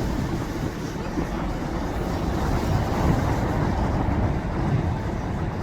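Wind buffeting the microphone: a steady, loud low rumble that swells and eases unevenly.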